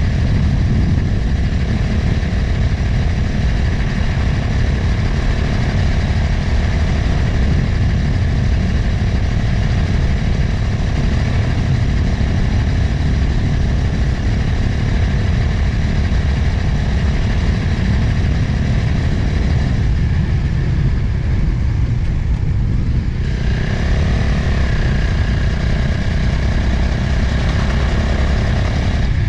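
Motorcycle engine running while riding on the road, mixed with heavy wind rushing over the camera microphone.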